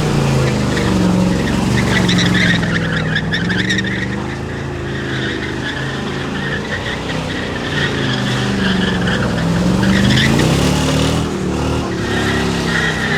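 Car engine revving up and down during a burnout, with tires squealing against the pavement in two stretches as the rear wheels spin.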